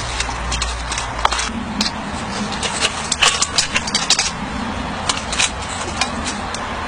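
Irregular light metallic clicks and clinks of small metal parts being handled, while a model steam engine is readied for firing up. A steady low hum runs underneath and stops about a second and a half in.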